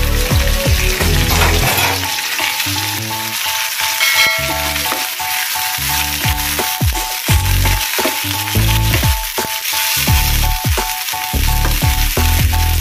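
Spice paste and sliced aromatics sizzling in hot oil in a frying pan, stirred with a metal ladle, over background music.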